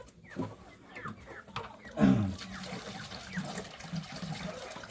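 Water running and splashing as a chickens' water container is rinsed out. A short low call about two seconds in is the loudest moment.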